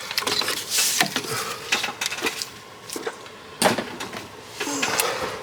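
Hand-handling noise from work on an engine's belt drive: a string of irregular knocks, clicks and scrapes of metal and plastic parts, the sharpest about three and a half seconds in.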